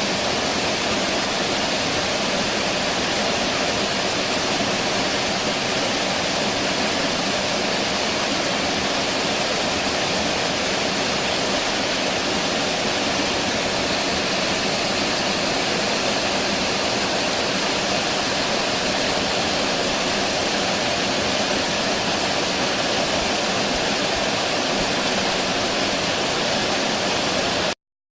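A steady, even rushing noise that cuts off abruptly near the end.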